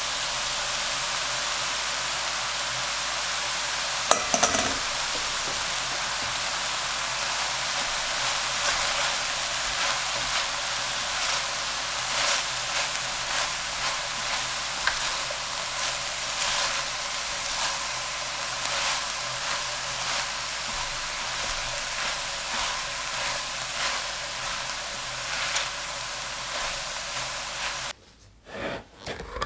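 Beef mince and chopped vegetables sizzling in a hot stainless steel sauté pan while a spatula stirs and scrapes through them, with a sharp knock about four seconds in. Near the end the sizzling cuts off and a few clinks follow.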